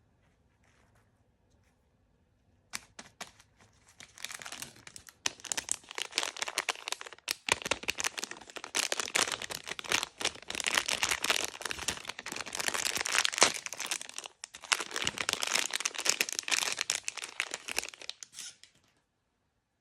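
Crinkly blind-bag wrapper being crumpled and torn open by hand: dense crackling that starts about three seconds in, breaks off briefly twice, and stops just before the end.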